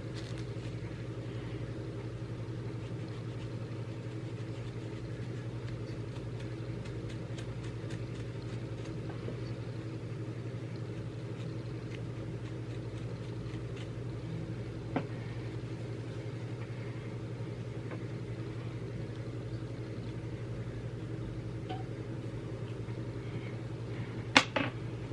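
A steady low mechanical hum, like a fan or appliance running. A single sharp click about fifteen seconds in, and a louder quick cluster of clicks near the end.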